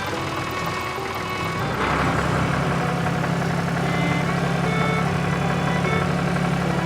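Tractor engine running steadily, a low hum that grows louder about two seconds in and then holds, over light background music.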